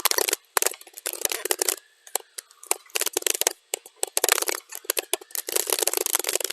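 Computer keyboard typing played back at double speed: rapid key clicks in dense runs, thinning to scattered keystrokes about half a second in, then picking up again at full pace around four seconds in.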